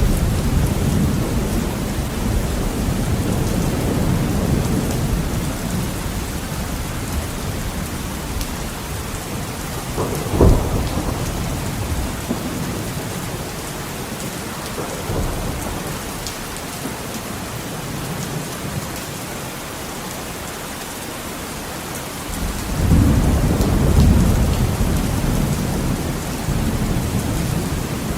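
Heavy rain on a window with a steady hiss, under rolling thunder: a deep rumble fading over the first several seconds, a short sharp thunderclap about ten seconds in, and another rumble building and fading about twenty-three seconds in.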